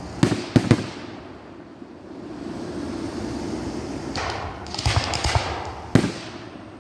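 Aerial firework shells bursting: three sharp bangs within the first second, a quick run of bangs around five seconds in, and one loud bang near six seconds.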